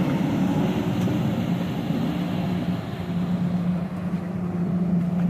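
A passing motorboat's engine drones steadily, its note holding nearly level.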